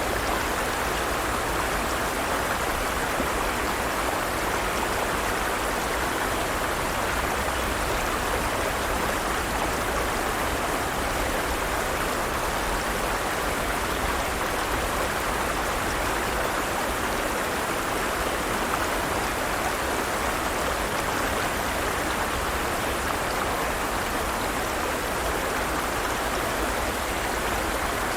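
Forest stream flowing, a steady rushing of running water.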